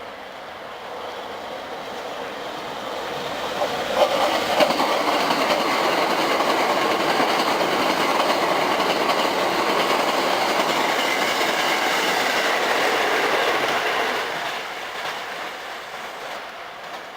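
Eight-car Hankyu 7300 and 8300 series electric train passing through a station at speed. It builds up, then runs loud with wheels clattering over the rail joints, the first sharp knocks about four seconds in, and fades away after about fourteen seconds.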